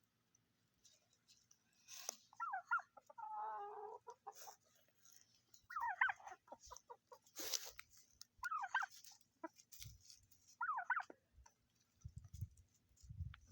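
Turkeys calling in about five short warbled bursts, the second a longer rattling gobble. A couple of sharp clicks fall between the calls.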